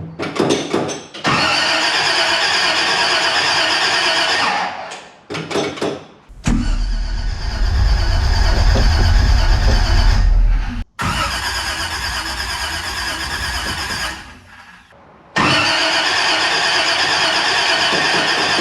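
Starter cranking a 327 cubic-inch small-block Chevy V8 in several long bursts of a few seconds each, with short pauses between. This is the first cranking of a freshly built engine, meant to bring fuel up to the fuel pump.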